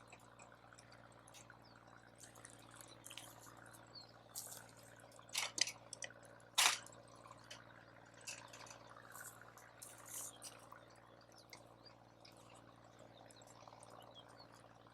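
Wood campfire crackling with scattered sharp pops, the loudest a couple of snaps about five and a half and six and a half seconds in.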